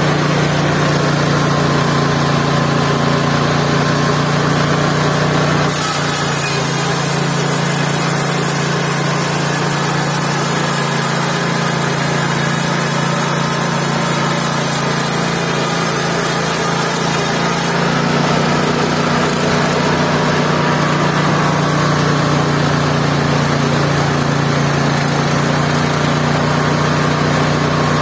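Mobile band sawmill's engine running steadily. A high hiss joins it from about six seconds in and stops about twelve seconds later.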